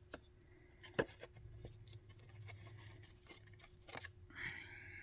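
Needle and waxed thread being worked through a thin cardboard tag and button: quiet handling sounds with scattered faint clicks, one sharper click about a second in, and a brief rasp near the end.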